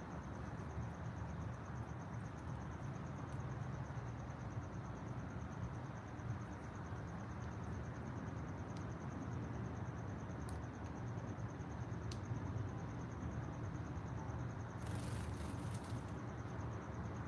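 Outdoor ambience: an insect keeps up a steady high, rapidly pulsing trill over a low, even rumble. A brief high hiss comes near the end.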